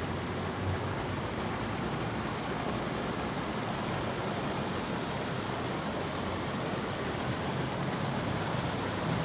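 Shallow stream of water babbling steadily, an even rushing hiss with no breaks.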